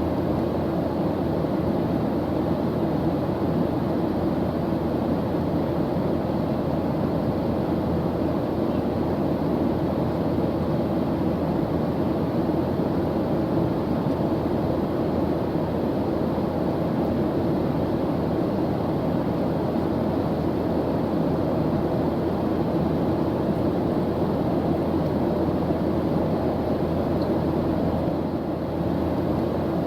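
Steady airplane engine drone, a constant low rushing noise with a faint hum and no change in pitch or level.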